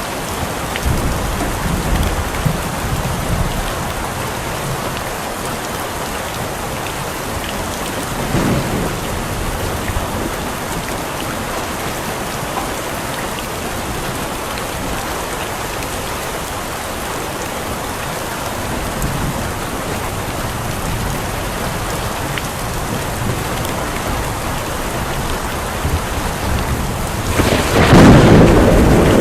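Steady heavy rain falling, with low rumbles of thunder: a brief one about eight seconds in and a louder, longer roll near the end.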